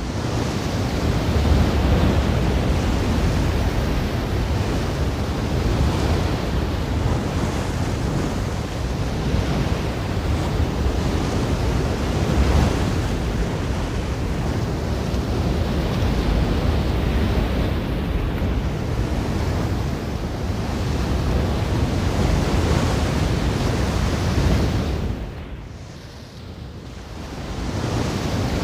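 Ocean surf washing steadily on a shore: a dense, continuous rush of water. Near the end it falls away briefly, then swells back up.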